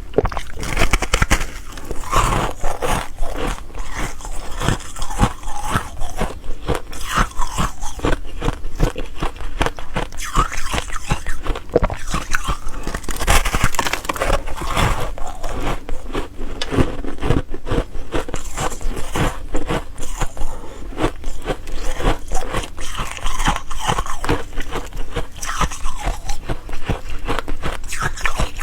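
Ice cubes being bitten and chewed close to the microphone: continuous rapid crunching and crackling, an irregular run of sharp cracks as the ice breaks between the teeth.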